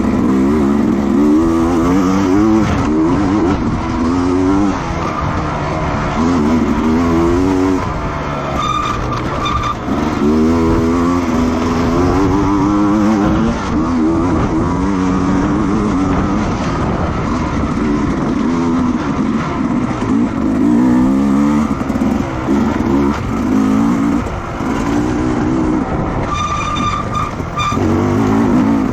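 Racing motorcycle engines at full throttle, revving up and shifting repeatedly, each run of rising pitch breaking off at a gear change. A short higher-pitched tone sounds twice, about nine seconds in and again near the end.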